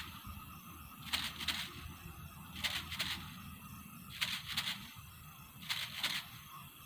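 Hand work on a bamboo rat trap: short scraping strokes that come in pairs, about one pair every second and a half.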